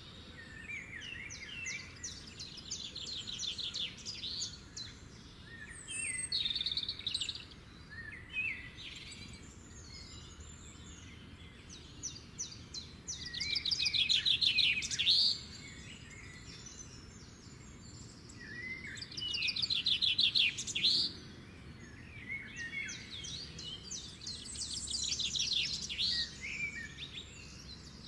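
Songbirds singing and calling: rapid trilled phrases and short chirps from several birds. The trills are loudest about halfway through and again around two-thirds through.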